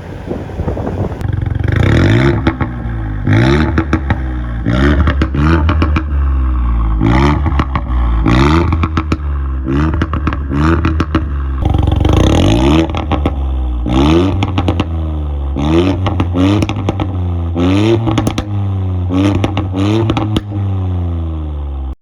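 Ford Fiesta ST with a Milltek aftermarket exhaust, revved in about twenty quick throttle blips from idle, each rev rising sharply and falling back, with crackles from the exhaust as the revs drop.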